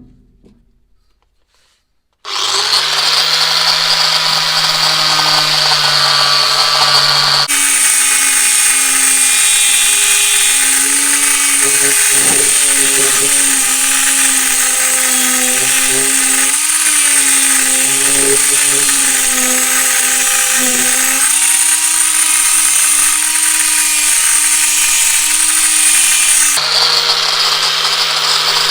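Electric power tool motor starting up after a short silence and running with a steady hum. A few seconds in, the sound switches to a higher pitch that wavers as the tool works under load, then returns to the lower steady hum near the end.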